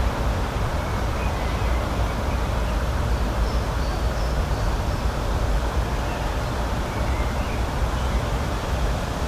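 Steady outdoor rushing noise with a deep low rumble, and a few faint, high bird chirps scattered through it.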